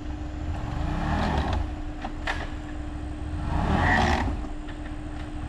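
Off-road buggy engine revving up and back down twice, the second rev the stronger, over a steady idle, as the buggy tries to climb a rock ledge while high-centered.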